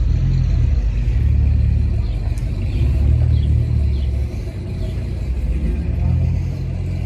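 A car engine running with a low, steady rumble that swells and eases a little.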